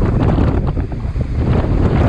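Tropical-storm wind buffeting the microphone in a heavy, rumbling roar, with rough surf behind it.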